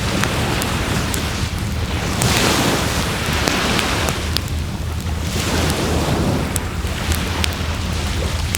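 Wood fire crackling with frequent sharp pops, over surf washing onto the shore in slow swells of hiss.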